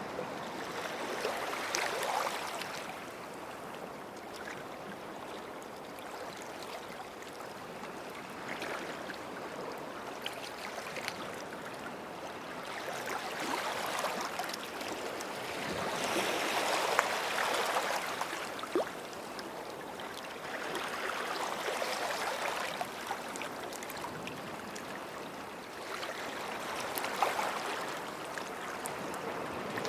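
Gentle sea waves lapping at the shoreline, swelling and falling back every few seconds, with small crackling ticks in the wash.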